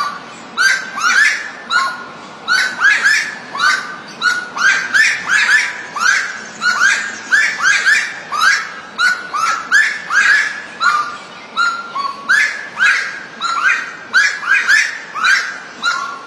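Birds calling with loud, short chirps, repeated about two to three times a second without a break.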